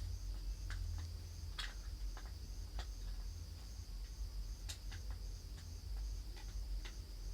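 Low steady hum under a faint high chirp that repeats evenly two or three times a second, with a few scattered light clicks.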